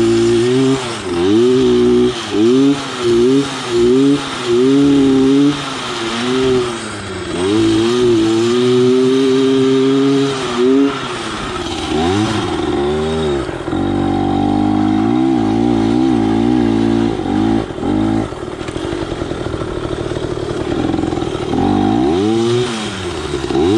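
Yamaha PW80's single-cylinder two-stroke engine, fitted with an FMF slip-on exhaust and Boyesen reeds, revving up and down as the pit bike is ridden around. About six quick throttle blips come first, then a longer held rev, then lower, uneven running and another rise near the end.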